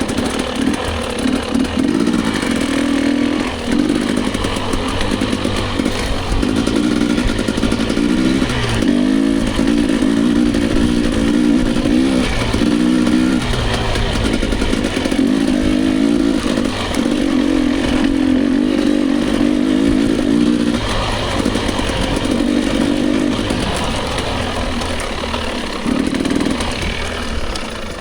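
Dirt bike engine riding a trail, the revs rising and falling again and again as the throttle is opened and shut.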